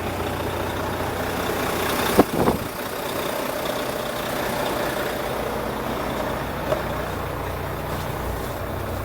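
Volvo D13 diesel engine of a semi truck idling with a steady low rumble. A couple of sharp knocks come a little over two seconds in, and a lighter one later.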